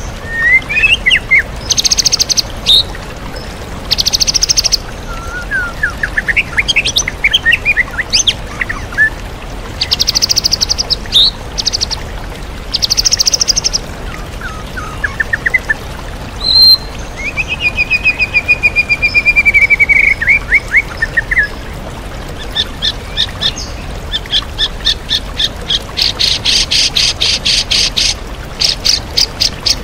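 White-rumped shama (murai batu) in full song, packed with mimicked calls of other birds: bursts of very fast rattling notes, quick chirps and glides, and a long slightly falling trill, with a long fast rattle near the end. A steady rush of a waterfall runs underneath.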